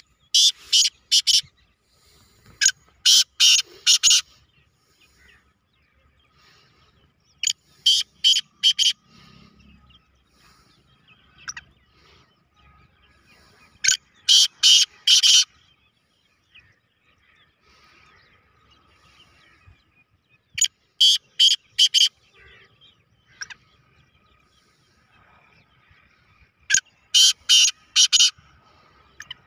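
Black francolin (kala teetar) calling: six loud phrases, each a quick run of three to five short, harsh, high notes, repeated every five to seven seconds.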